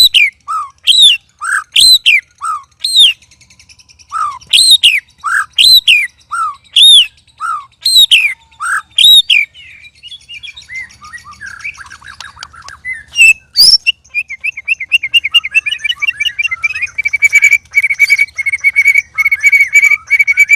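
White-rumped shama (murai batu) singing. It starts with loud, clear arched whistles about once a second, each followed by a lower note. This gives way to a jumble of softer, varied notes and then a fast, even trill of repeated notes through the last third.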